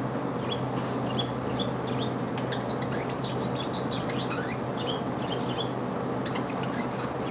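Pet birds chirping, many short high twittering calls with a few quick rising and falling notes, over a steady low hum.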